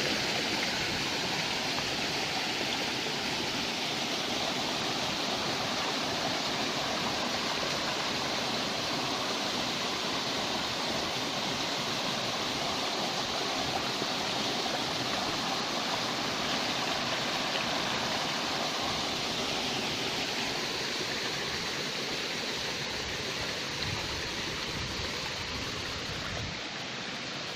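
Small waterfall: falling water running steadily.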